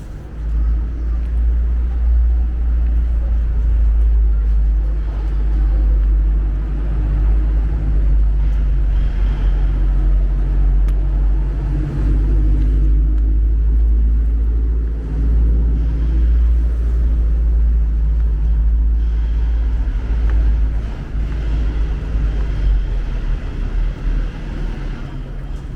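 Steady low rumble of street traffic, with engine noise from vehicles that fades somewhat near the end.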